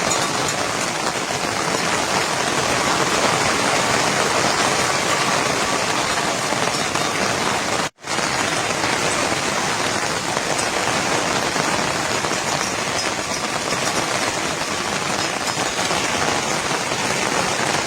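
Steady, heavy rainfall pattering on surfaces. It breaks off for a moment about eight seconds in, then carries on.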